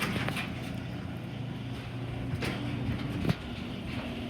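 LiftMaster 8165 chain-drive garage door opener running steadily as it closes the door, with a couple of knocks from the door, the louder one about three seconds in.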